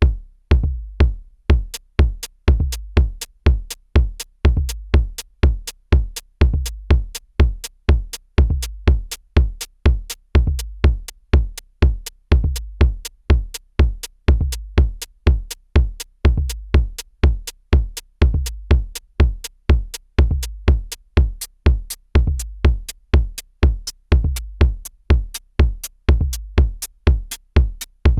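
Korg drumlogue drum machine playing a steady looping drum pattern, about two hits a second. Each hit is a sharp click with a long, deep low-end tail, like a punchy electronic kick.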